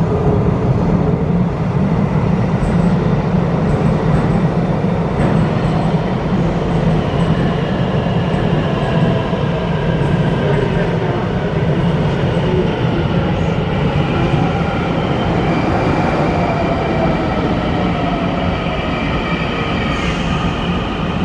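A Taiwan Railways district-fast electric train pulls into an underground station with a steady, loud rumble of running gear. From about seven seconds in, thin squealing tones join it and slowly sink in pitch as the train brakes to a stop.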